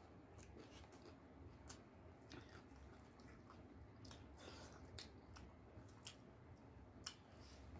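Faint chewing and mouth smacks of people eating by hand, with a handful of short, sharp smacks scattered through otherwise quiet room tone.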